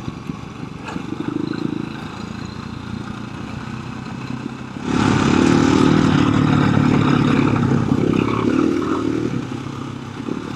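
Single-cylinder four-stroke KTM 350 EXC-f dirt bike engine running under the rider, at a light throttle at first and then clearly louder from about five seconds in as the throttle opens, with some clatter over the trail.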